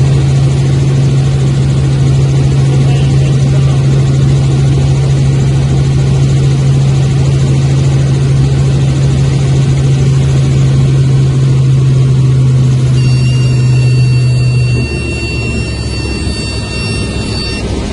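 Helicopter engine and rotor noise heard inside the cabin: a loud, steady drone with a strong low hum. About thirteen seconds in, a high-pitched steady electronic tone, likely a cockpit warning, starts. Two seconds later the low hum cuts out and the overall noise drops.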